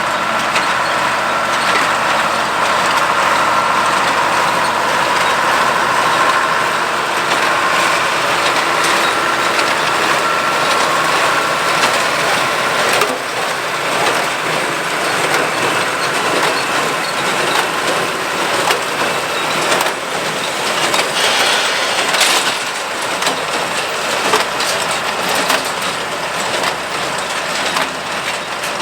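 93 hp Allis-Chalmers 200 tractor working under load while running a New Holland 273 square baler: a steady engine and machinery din with a couple of sharp knocks from the baler.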